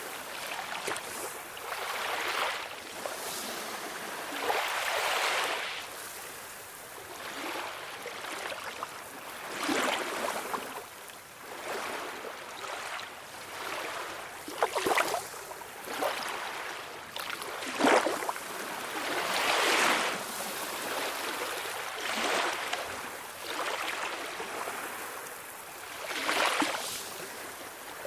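Small ocean waves washing ashore, one after another every couple of seconds, with sharper splashes among the steady hiss of surf.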